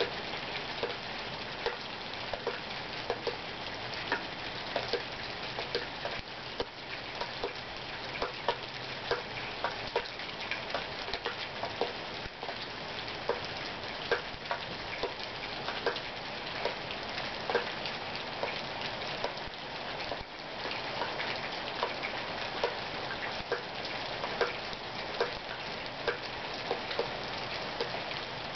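Rain falling steadily, with frequent sharp ticks of drops hitting a surface a few times a second.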